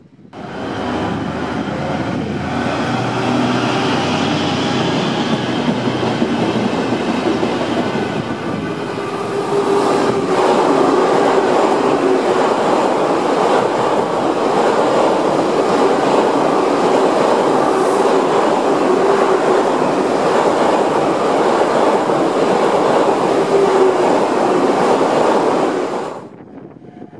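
A white SBB tilting electric train passing close by: a continuous heavy rolling rumble with wheels clattering over the rail joints. A lower hum runs under the first eight seconds or so, and the train grows louder from about ten seconds. The sound cuts off suddenly near the end.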